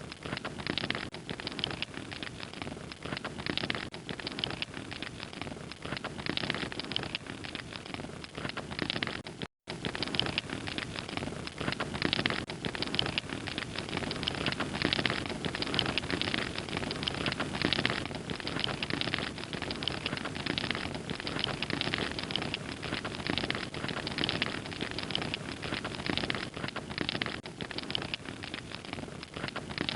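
Wood fire crackling steadily, a dense run of small pops and crackles, with the sound cutting out for an instant about nine and a half seconds in.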